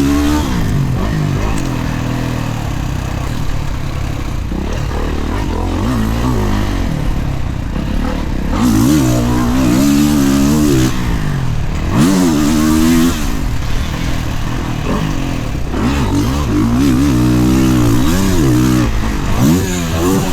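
Dirt bike engine revving hard and easing off again and again while ridden around a motocross track, its pitch climbing and dropping with each burst of throttle.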